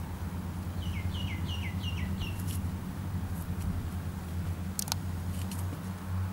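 A bird calling a quick run of about six short, falling notes in the first few seconds, over a steady low hum; a single sharp click comes about five seconds in.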